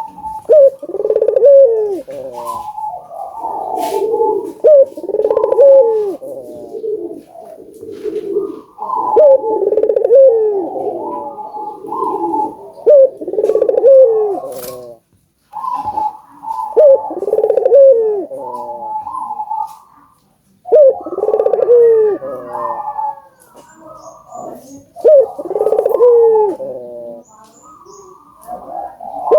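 Burung puter (Barbary/ringneck doves) cooing over and over, one coo phrase every two to three seconds with the calls overlapping at times. There are short pauses about halfway through and again a few seconds later.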